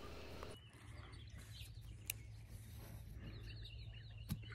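Faint bird chirps, a few short high calls, mostly in the second half, over a quiet background with a low steady hum.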